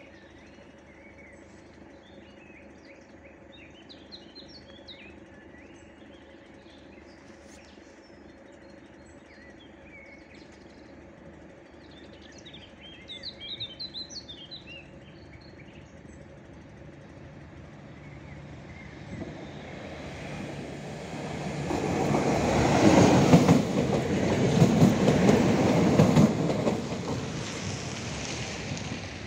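Regio SA139 diesel multiple unit approaching and passing close by. It grows louder from about eighteen seconds in and is loudest for several seconds as it passes, with the wheels knocking over the rail joints, then it fades as it moves away.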